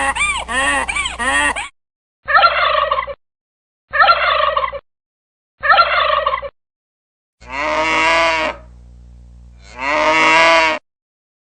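A sequence of recorded farm animal and bird calls, cut in one after another with dead silence between. A quick honking call repeats four times, then three identical short falling calls, then two long drawn-out calls.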